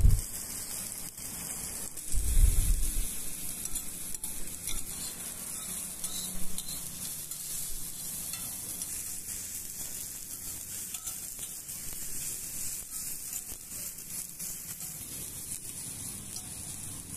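Diced raw plantain sizzling as it fries in oil on a hot dosa griddle, with a spatula now and then stirring and scraping the pieces. A dull thump about two seconds in.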